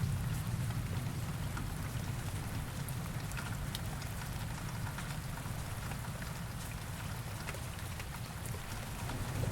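Heavy rain falling steadily, with individual drops ticking over the hiss. A low rumble of distant thunder underneath dies away over the first few seconds and starts to build again near the end.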